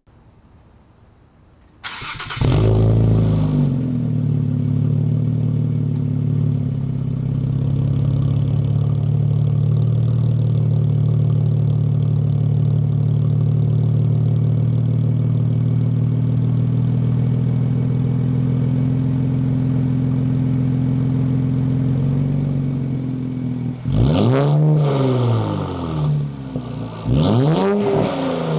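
Infiniti Q60's VR30 twin-turbo V6 with stock downpipes and the muffler deleted starts about two seconds in, then idles steadily. Near the end it is revved twice, each rev rising and falling in pitch.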